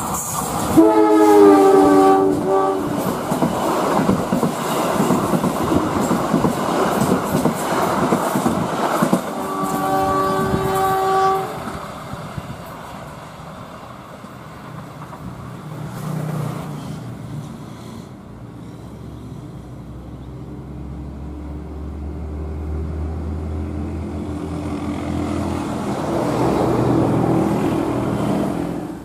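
Diesel locomotive's multi-note horn sounding two blasts about eight seconds apart as a passenger train passes close by, over the rumble and wheel clatter of the coaches. The train noise then fades as the train draws away.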